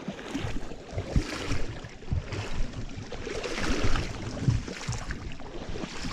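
Creek water sloshing and splashing, with irregular low knocks throughout and a louder stretch a little past halfway.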